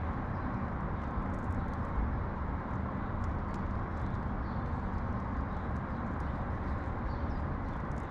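Steady low rumble of outdoor urban background noise, with faint light ticks scattered through it.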